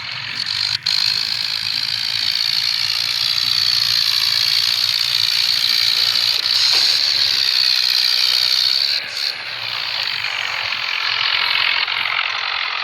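Tractor running steadily: a low engine drone under a loud, even hiss that holds through, dipping briefly about nine seconds in.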